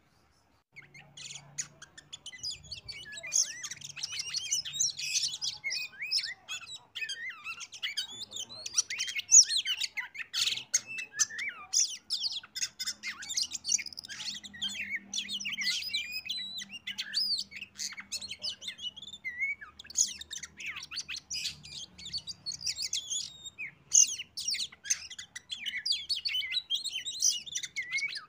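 Oriental magpie-robin (kacer) singing a fast, varied, continuous run of chirps and whistles, starting about a second in.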